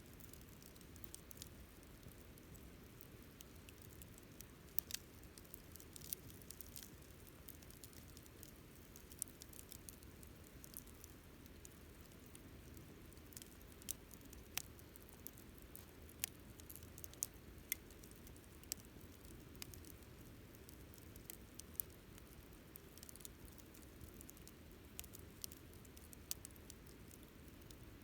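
Wood campfire crackling: irregular sharp pops and snaps, some much louder than others, over a soft low rumble of the burning fire.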